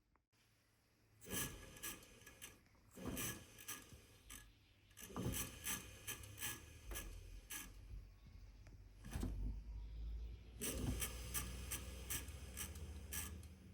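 Hand work on machine parts: several bursts of rapid clicking, rattling and scraping, with short pauses between them.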